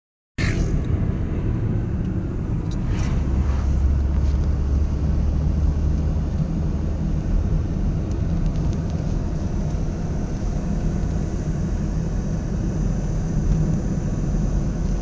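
A vehicle running, a steady low rumble, beginning after a moment of silence.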